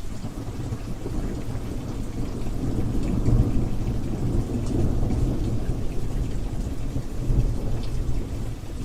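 Steady rain with pattering drops and a low rumble of thunder that swells about three seconds in and again near the end.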